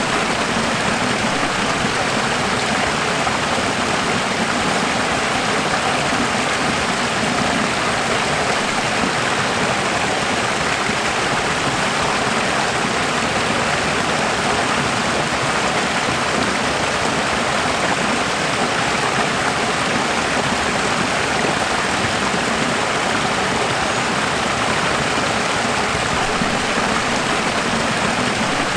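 Running water rushing steadily, an even, unbroken sound like a stream or small waterfall.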